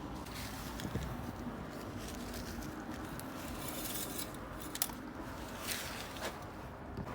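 A few light metallic clicks and clinks, the sharpest about five seconds in, over a steady low hum.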